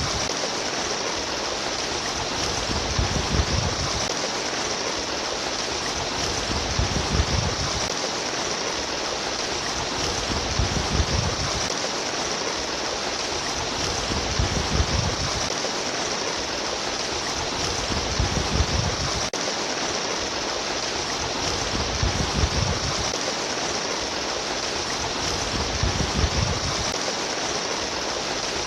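Flowing water trickling and babbling in a steady rush, with a deeper surge that comes back about every four seconds.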